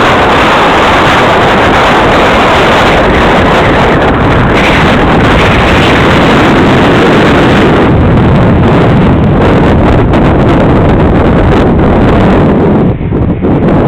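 Heavy wind buffeting the microphone, a loud, rough, constant rush that drowns out other sounds, easing briefly near the end.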